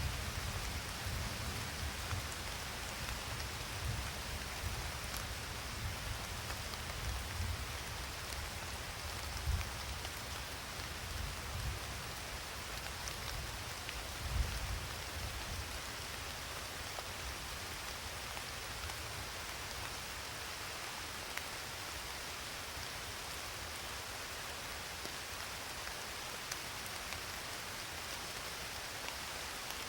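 Steady rain falling, an even hiss, with low rumbles of thunder that swell twice and die away by about halfway through.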